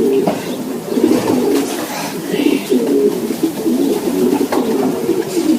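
Racing pigeons cooing inside their loft, a steady stream of low warbling coos with no break.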